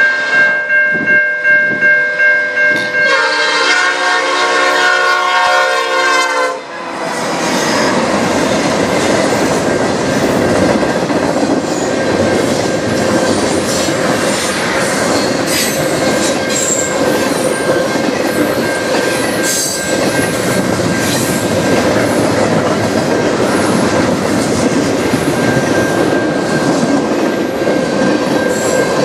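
Level-crossing bell ringing as a CN freight train approaches. The locomotive horn then sounds one long blast, from about three seconds in to nearly seven seconds, and cuts off. After that the lead locomotives and a long string of tank cars roll through, with a loud steady rumble and clickety-clack of wheels on rail joints while the crossing bell keeps ringing.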